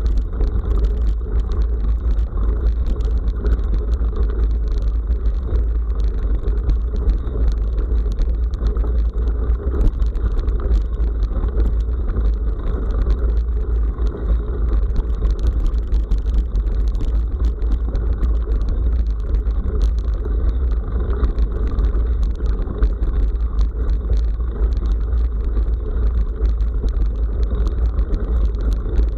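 Bicycle riding along a forest gravel road: a steady, loud low rumble of wind and road vibration on the microphone, with a constant scatter of small clicks and rattles from the tyres and the bike.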